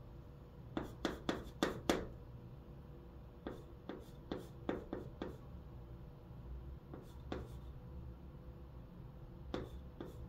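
Chalk writing on a blackboard: groups of short, sharp chalk strokes and taps with brief pauses between them, as hanja characters are written stroke by stroke.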